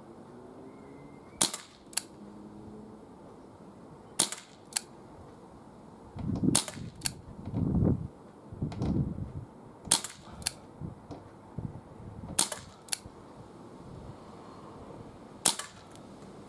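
Six shots from a .22 Webley Mk6 CO2 air revolver fired single action, spaced about two to three seconds apart. Each sharp crack is followed about half a second later by a second, fainter click.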